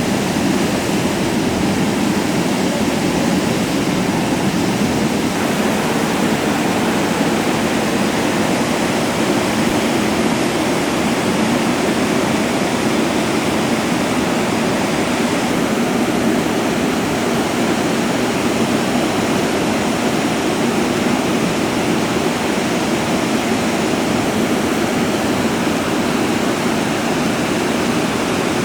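Whitewater rushing over a river waterfall and rapids: a loud, steady, unbroken noise of falling water.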